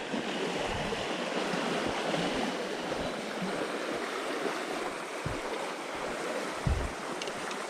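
Steady rushing of flowing creek water, with a couple of short low bumps near the end.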